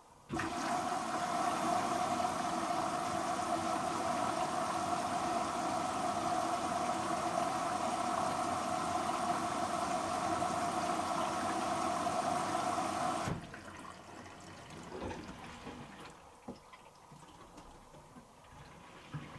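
Water filling a Hoover H-Wash & Dry 500 washer dryer through its inlet valve for the pre-wash, a steady rushing that starts suddenly and cuts off after about thirteen seconds. Faint clicks follow.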